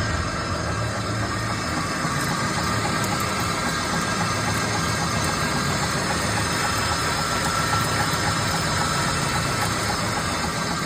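Hollymatic 180-A mixer grinder running steadily on its three-phase electric motor, a continuous machine hum with a faint whine.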